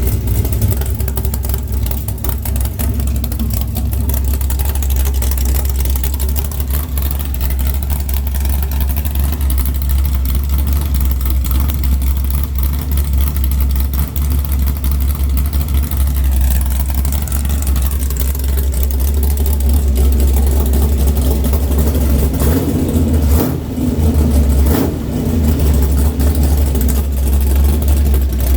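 Rebuilt Chevrolet 396 big-block V8 with a Comp Mutha Thumper cam running warm at hot idle with a deep, steady rumble. It gets somewhat louder and fuller in the last several seconds, with a couple of brief dips.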